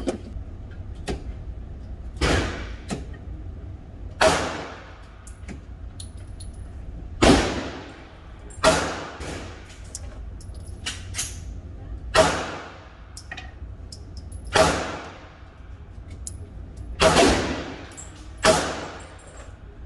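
Pistol-calibre gunshots at a shooting range: about a dozen single shots fired at an uneven pace, one to three seconds apart, each trailing off briefly.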